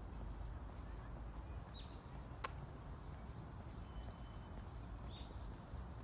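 Small songbirds chirping: a few short high notes, then a quick run of about seven falling chirps, some three a second, in the second half. Underneath is a steady low outdoor rumble, with one sharp click about halfway through.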